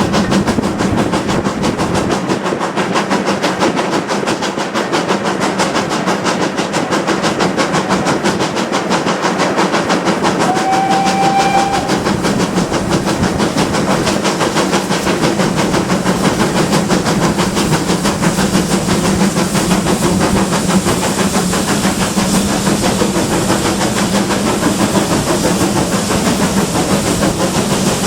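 GWR Manor-class steam locomotive working hard, with a fast, steady run of exhaust beats over hiss and rail noise. A brief faint high tone sounds about ten seconds in.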